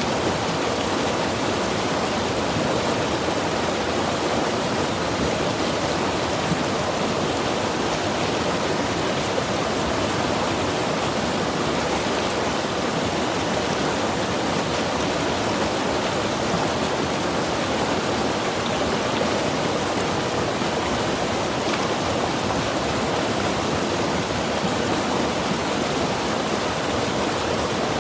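Mountain river rushing over rocks: a steady, unbroken flow of water.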